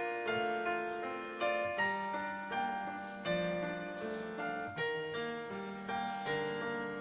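Solo piano playing a slow melody over broken-chord accompaniment, each note struck and left to ring out.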